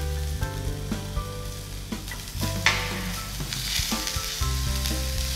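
Chopped ginger and green chili sizzling in hot fat in a nonstick frying pan, stirred with a silicone spatula; the sizzle grows louder a little past halfway.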